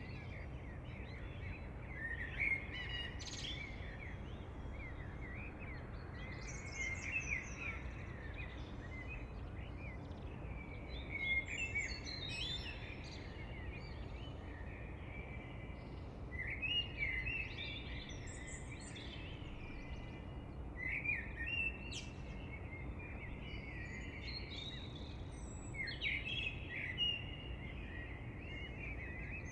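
Several songbirds singing and chirping in short warbling phrases every second or two, over a steady low background rumble.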